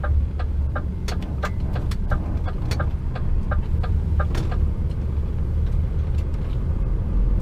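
HGV truck cab with the diesel engine running as a steady low rumble. A turn indicator ticks about three times a second and stops about four and a half seconds in, along with a few sharper clicks.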